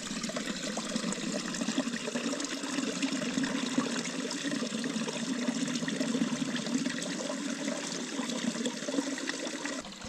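Small stream of water running and splashing steadily, dropping off just before the end.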